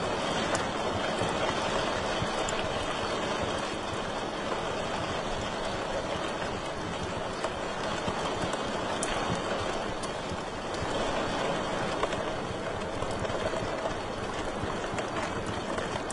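Wood fire burning in a fireplace: a steady rushing hiss with scattered crackles and occasional sharp pops, the strongest pop about twelve seconds in.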